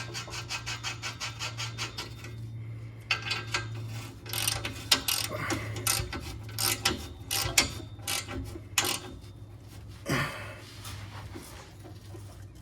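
A ratchet wrench clicking as an exhaust flange bolt is run down tight: a quick, even run of clicks for the first two seconds or so, then uneven bursts of ratcheting strokes.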